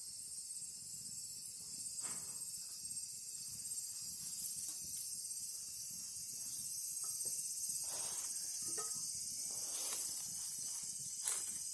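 Food cooking over a wood campfire: a steady hiss and sizzle with a few scattered crackles and pops, from soy-sauce-brushed corn grilling on the fire.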